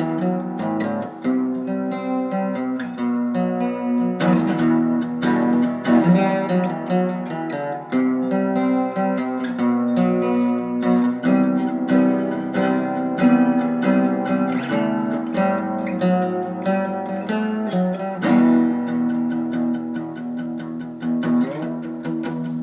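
Acoustic guitar playing an instrumental break between sung verses, chords strummed and picked in a steady rhythm.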